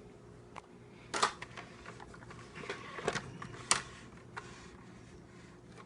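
Light handling noise: scattered small clicks and taps, with sharper knocks about a second in and just before four seconds in.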